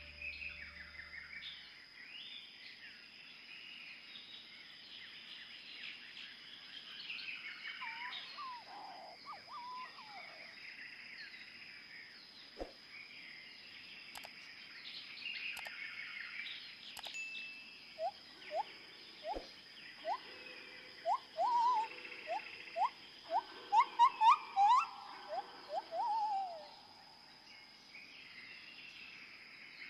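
Wild birds calling: a continuous chatter of mixed chirps, then past the middle a loud series of short rising whistled notes that climb in pitch and grow louder before trailing off, with a few sharp clicks between.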